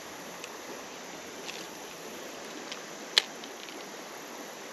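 Steady rushing of a shallow creek's flowing water, with a few faint ticks and one sharp click about three seconds in.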